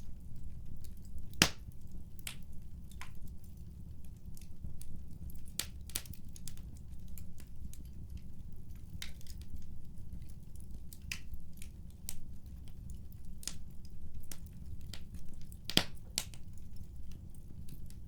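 Wood fire crackling, with irregular snaps and pops over a steady low rumble; two pops stand out, one about a second and a half in and one near the end.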